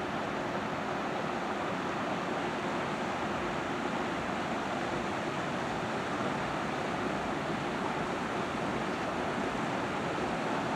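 A river cruise ship passing at speed: a steady rushing of water and motor noise.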